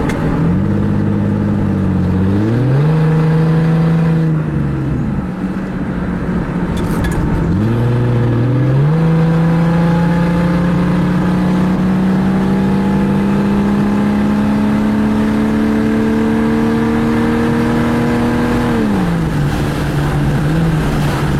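Jeep 4.0 straight-six running with no muffler, the exhaust open right after the catalytic converter, while the Jeep is driven. The engine note climbs, drops back, climbs sharply again, then rises slowly and steadily for about ten seconds before falling away near the end.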